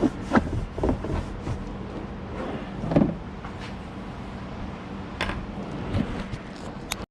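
Oil drain pan being handled and wiped out with paper towels: irregular knocks, clicks and rubbing over a steady low hum.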